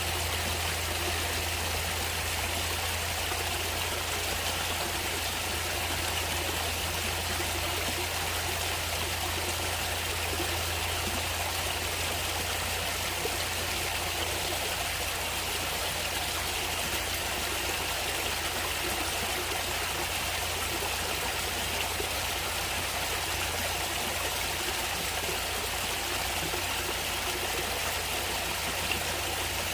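Natural stream water running steadily, an even unbroken rush with no changes.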